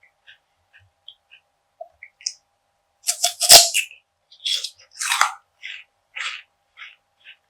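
Crunchy biting and chewing of perilla seed gangjeong, a crisp perilla seed bar. A few faint clicks come first, then a loud crunching bite about three and a half seconds in, followed by several irregular crunches as it is chewed.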